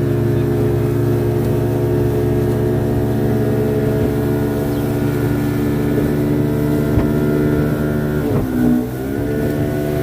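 Engine of a moving vehicle running at steady revs; about eight and a half seconds in the revs dip briefly, then pick back up.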